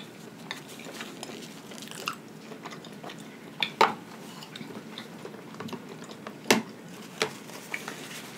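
A person chewing food with wet mouth smacks and clicks, a few sharper clicks standing out about four and six and a half seconds in.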